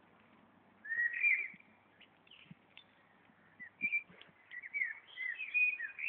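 A songbird singing in clear, whistled notes that slide up and down: a short phrase about a second in, then a longer, more varied phrase from a little past halfway that runs to the end.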